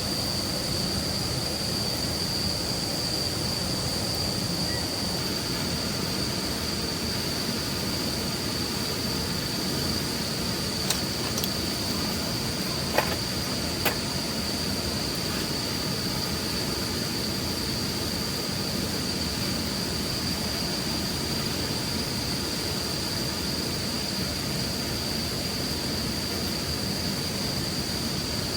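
A steady, high-pitched insect chorus, typical of autumn crickets, over a constant background hiss. A few sharp clicks come about halfway through.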